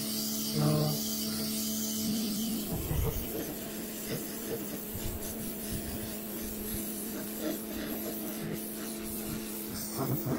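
Electric pressure washer running with a steady motor hum, its water jet spraying hard onto dirty decking; the hissing, scouring spray sets in about two seconds in.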